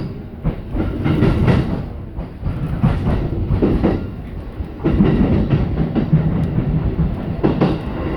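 E233 series 7000 electric train running, with a steady rumble and the wheels knocking over rail joints several times at irregular intervals.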